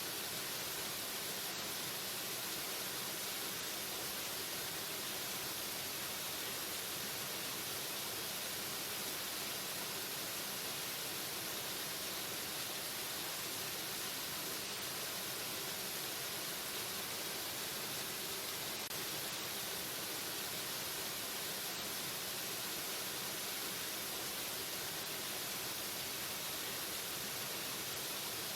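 Waterfall: a steady, even rush of falling water with a hissy, bright character.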